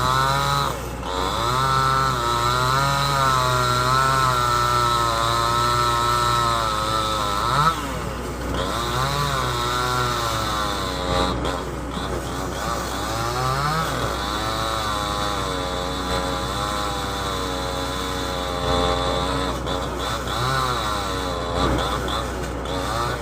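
Two-stroke chainsaw cutting through a heavy log, its engine pitch rising and falling again and again as the throttle and the load change. A steady low engine drone runs underneath.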